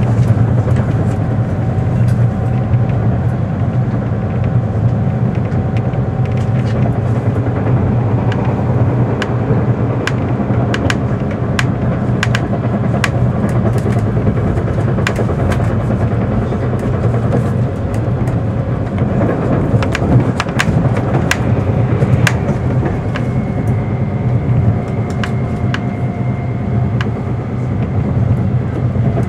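Running noise inside a 583-series electric sleeper train: a steady low rumble of wheels and traction motors, with many sharp irregular clicks as the wheels cross rail joints and points. A faint high whine comes in about two-thirds of the way through.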